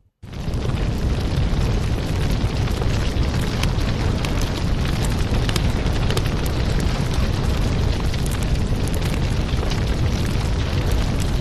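Fireplace fire burning, a steady low rumble with scattered crackles and pops. The sound drops out for a moment right at the start, then comes straight back.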